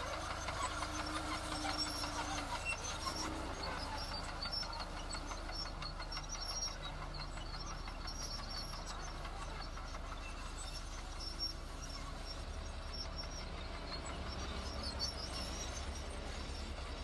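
Diesel engine of heavy construction machinery running steadily with a low rumble that grows stronger and more pulsing about twelve seconds in.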